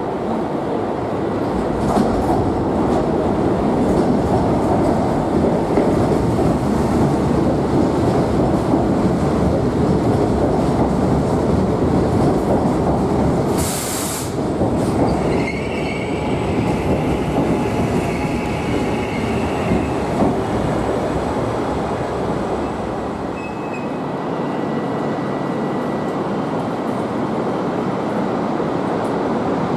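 Double-deck suburban electric train running into the underground platform, its wheels and running gear rumbling steadily on the rails. About halfway through there is a short, sharp hiss, followed by a high squeal lasting a few seconds.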